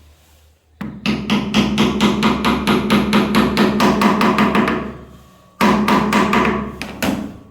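Hammer blows in quick succession, about six a second, in a run of some four seconds. After a short pause comes a second run of about a second and a half.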